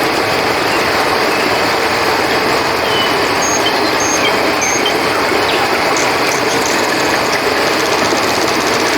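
Steady rushing of flowing river water, with a few short, high cricket chirps over it.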